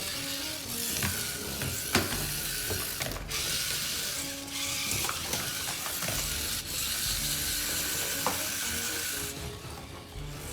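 Toy spider's gear mechanism rattling and clicking steadily, with a few sharper clicks, until it stops about nine seconds in.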